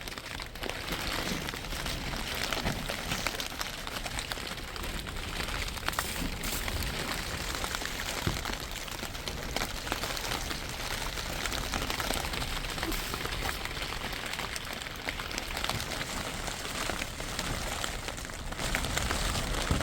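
Steady rain falling, a constant hiss dotted with many small drop taps.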